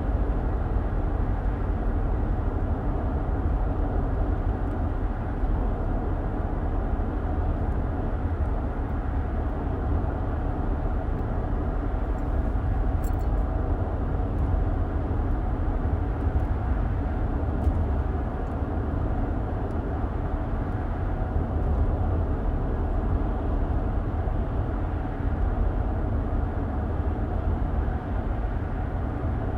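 Steady low road rumble of a moving car heard from inside the cabin, with tyre and engine noise holding even, and a couple of faint ticks about halfway through.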